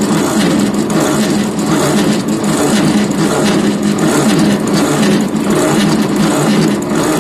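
1956 Ford tractor's starter cranking the cold engine on a weak 6-volt battery, turning it over steadily in a pulsing rhythm without it catching.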